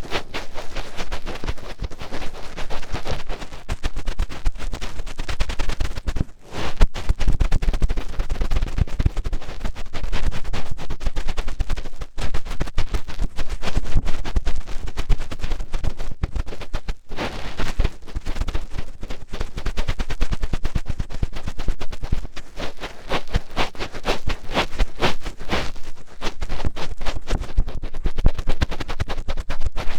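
Finger ear-cleaning ASMR: a fingertip digging and rubbing in an ear right against the microphone, a dense run of close crackling, popping scratches with a few brief pauses.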